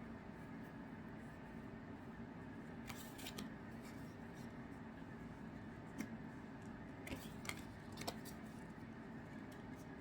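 Faint handling of trading cards and their packaging: a few light clicks and rustles, sharpest near the middle and around two-thirds of the way through, over low room noise.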